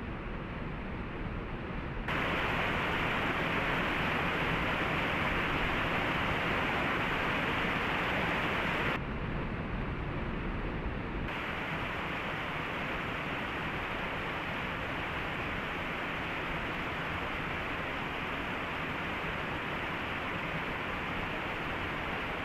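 Waterfall rushing with a steady, even roar. It turns abruptly louder and brighter about two seconds in and drops back again about nine seconds in.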